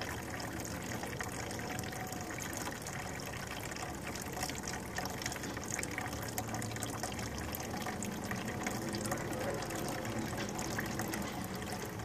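Thin gas-and-oil mixture pouring steadily out of a Honda engine's oil drain plug hole and splashing into a container. The crankcase is flooded with gasoline because the carburetor float stuck open and the gravity-fed tank emptied into the block.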